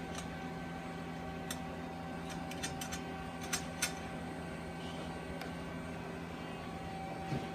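Steady machine or fan hum with a few short, sharp clicks and light taps from parts and tools being handled, two of them louder about three and a half seconds in.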